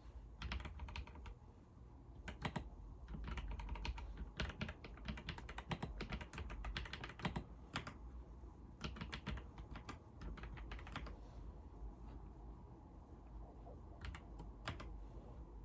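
Typing on a computer keyboard: runs of quick keystrokes with short breaks, a pause of about three seconds near the end, then a few more key presses, over a faint low hum.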